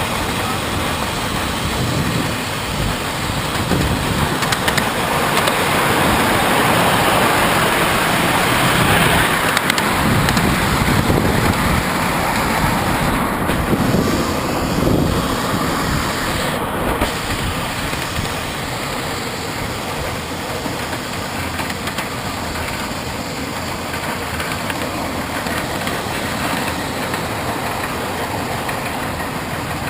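Oil-fired steam train running along its track, a steady rumble of wheels and running gear that grows somewhat louder for several seconds near the middle.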